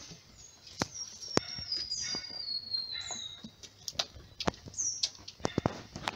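Birds chirping in short high, falling calls repeated every second or so, with one long whistle that slowly falls in pitch about two seconds in. Scattered sharp clicks and ticks sound between them.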